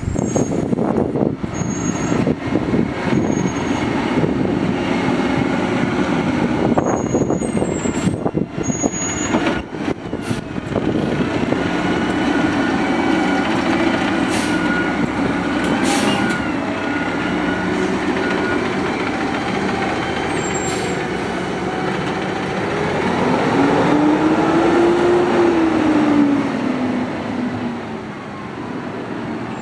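Natural-gas automated side-loader garbage truck running near idle, with several knocks and clanks along the way. Its pitch rises and then falls again near the end.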